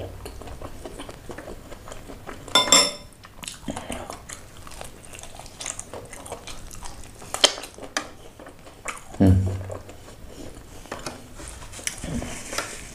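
Close-up eating sounds of fried chicken eaten by hand: biting, chewing and wet mouth clicks and smacks. There is a louder burst about two and a half seconds in, a sharp click a little past seven seconds and a short low sound about nine seconds in.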